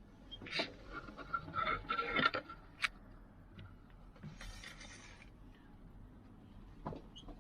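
Irregular scraping and rubbing with a few sharp clicks, the handling and mixing of a bowl of noodles.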